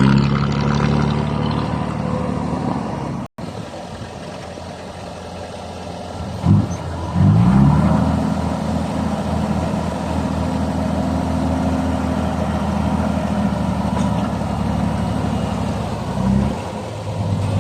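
Heavy diesel engine running steadily, revved a couple of times in quick succession about six to eight seconds in and briefly again near the end.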